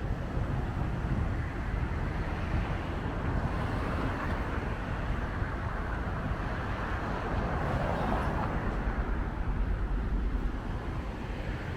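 Wind buffeting the microphone over outdoor traffic noise, with a vehicle passing that swells and fades in the middle of the stretch.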